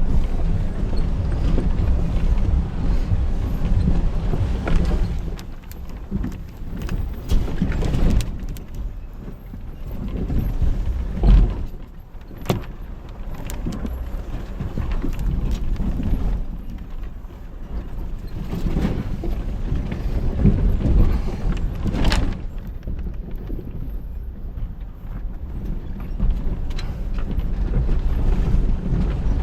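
A 4x4 crawling down a track of loose rock. The engine rumbles low under repeated knocks and clatter from the stones, with a heavy thump about eleven seconds in and a sharp knock about twenty-two seconds in.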